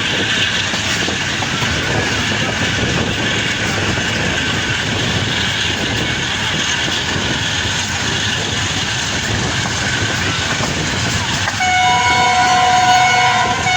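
Passenger train running along the track, a steady running noise of the moving carriages with wheel clatter. About twelve seconds in, a train horn sounds one long chord-like blast of about two seconds.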